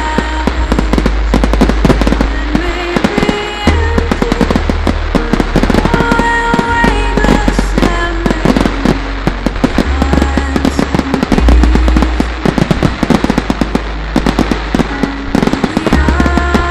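Fireworks going off in rapid, dense bangs and crackles, over loud music with held notes and a deep bass.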